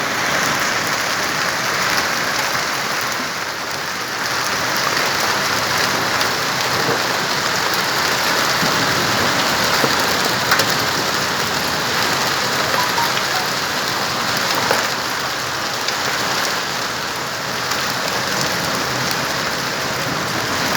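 Heavy rain mixed with hail, pouring steadily onto hard surfaces, with scattered small ticks through the even hiss of the downpour.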